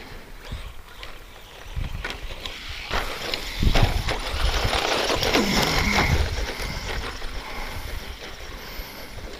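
ECX Circuit 2WD RC stadium truck driving over a rough dirt track: its brushed electric motor whines and the tyres scrabble over the dirt, with a few knocks as it bounces. The truck gets louder and the motor pitch falls and rises in the middle as it passes close, then it fades.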